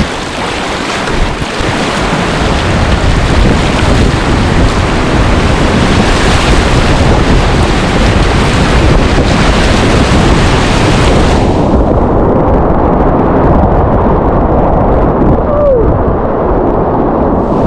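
Loud, steady rush of whitewater in a class III rapid, with wind and water buffeting the microphone. About eleven and a half seconds in, the sound abruptly turns muffled, losing its hiss and leaving a low, dull rush.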